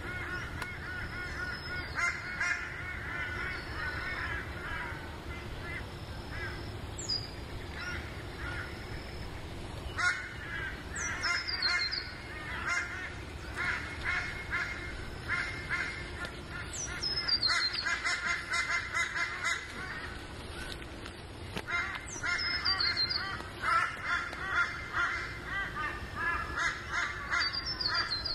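Bush birds calling: bouts of harsh, rapidly repeated calls, and now and then a high whistle that falls in pitch, about five times.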